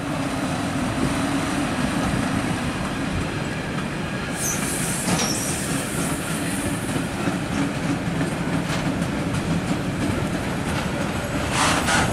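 Freight train hauled by an ÖBB class 1142 electric locomotive rolling past: a steady rumble of wagon wheels on the rails with clickety-clack. A brief high wheel squeal comes about four and a half seconds in, and a louder screeching burst comes near the end.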